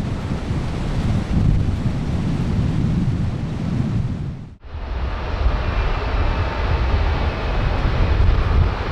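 Jet engine rumble from a Boeing 787-9's Rolls-Royce Trent 1000 engines under heavy wind buffeting on the microphone. About halfway through the sound cuts off abruptly and resumes; after that a faint high whine sits over the rumble.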